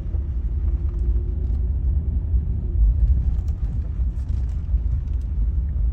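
Low, steady rumble of a car on the refuge's drive, heard from inside the car, with a faint steady hum for roughly the first half.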